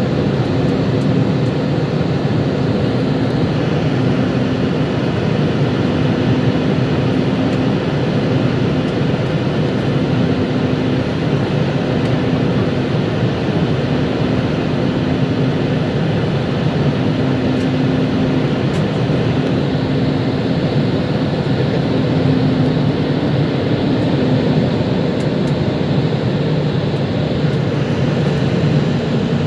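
Airbus A320 cabin noise: the jet engines and rushing air outside heard from inside the cabin as a steady, even noise with a faint low hum.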